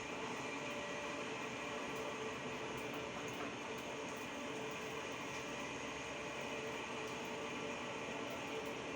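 Machine-shop machinery running steadily, a constant hum with a faint steady whine over it.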